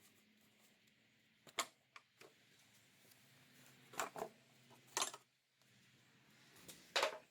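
A handful of short, sharp clicks and knocks, single ones and a quick pair, spaced a second or more apart over faint background.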